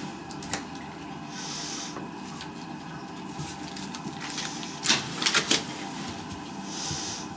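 Hand-work handling noises: a few sharp clicks and knocks, with a quick cluster of them about five seconds in, over a steady hum.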